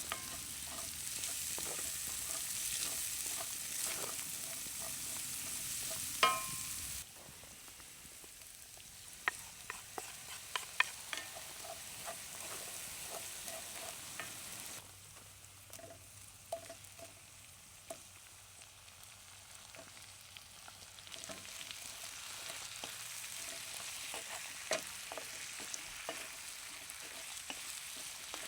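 Chicken wings sizzling over a wood campfire, with the firewood popping and crackling in sharp clicks. The hiss drops sharply about seven seconds in and comes back louder near twenty-one seconds, and a brief ringing clink sounds about six seconds in.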